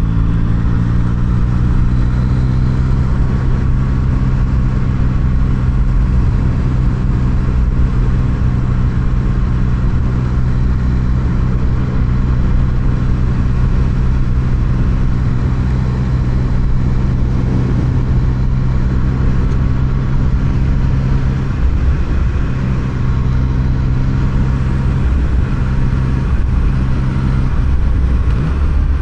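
Yamaha MT-09's inline three-cylinder engine running at a steady cruising note under a low rumble of wind and road noise, with the engine note shifting slightly in the last few seconds.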